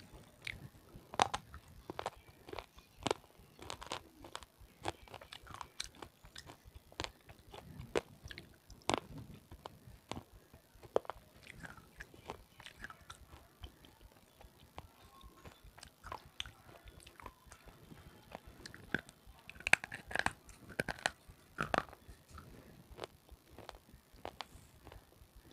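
Biting and chewing a red slate pencil (saleti), close-miked: a dense, irregular run of sharp crunches and cracks. The loudest cracks come about a second in and again around twenty seconds in.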